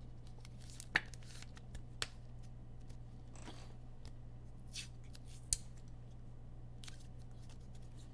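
Trading cards and packs being handled: a scattering of short swishes and clicks as cards slide and snap against each other, over a steady low hum.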